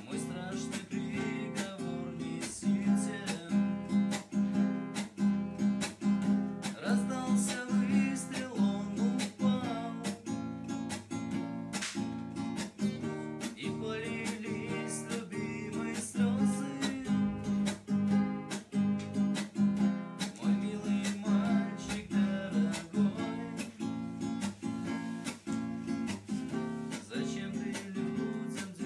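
Acoustic guitar strummed in a steady rhythm, playing minor-key chords.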